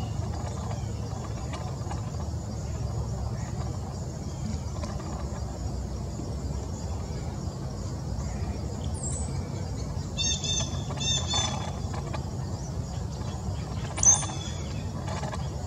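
Outdoor backyard ambience: a steady low rumble and a high hiss, with a few short bird chirps in two quick runs about ten seconds in and one louder chirp near the end.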